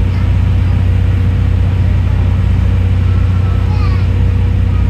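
Running noise inside a 12 series passenger coach hauled by a diesel locomotive: a steady, loud low rumble of the moving train, with a faint steady hum underneath.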